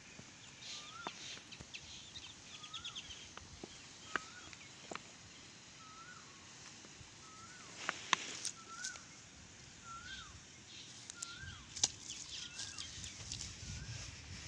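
A bird repeats a short whistled note that rises and dips, about once a second. Scattered sharp taps and slaps come from a freshly caught rohu being handled on the grass, two of them louder in the second half.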